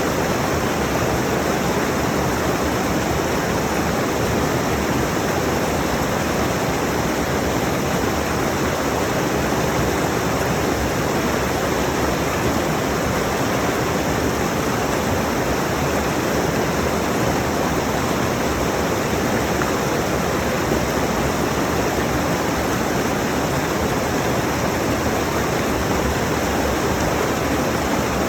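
Mountain stream rushing steadily over rocks, close to the microphone: a constant loud hiss of fast water with no change.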